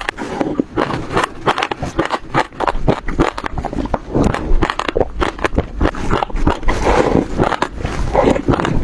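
Close-up chewing of passion fruit seeds: dense, irregular crunching and popping as the seeds crack between the teeth, with wet mouth sounds.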